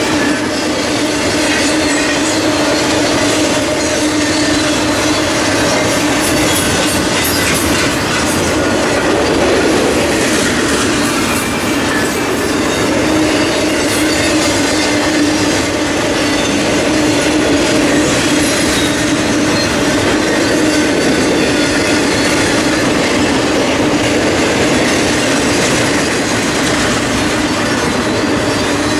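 Empty intermodal flatcars of a freight train rolling past at steady speed: steel wheels on rail give a continuous clatter with a steady hum running through it.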